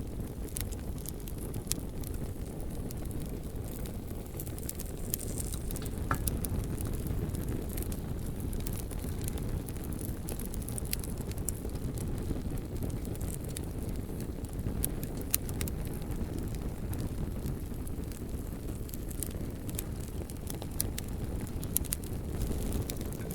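Wood bonfire burning: a steady low roar of the flames with scattered sharp crackles and pops of the burning logs.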